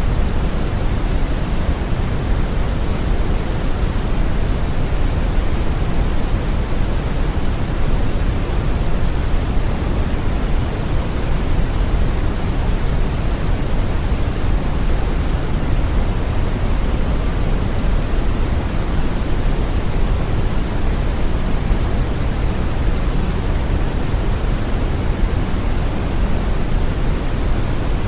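Steady brown noise: a deep, even hiss weighted toward the low end, with no changes or events.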